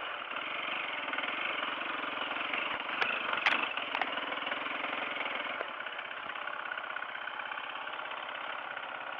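Dirt bike engine running steadily on a trail climb, with a few sharp knocks about three to four seconds in; a little later the engine note drops and runs on more quietly.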